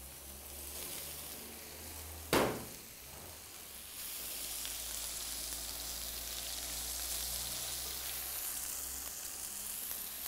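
Cubes of pumpkin with garlic and ginger sizzling as they fry in hot oil in a stainless steel pan, stirred with a wooden spatula. There is one sharp knock about two seconds in, and the sizzling gets louder from about four seconds in.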